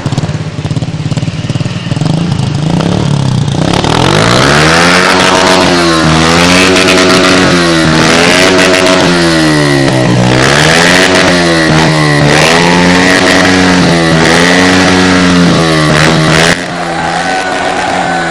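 Modenas Kriss 110 motorcycle with an aftermarket exhaust, idling and then revved up and down over and over, the throttle blipped about once a second before being held high with short dips and let fall back near the end.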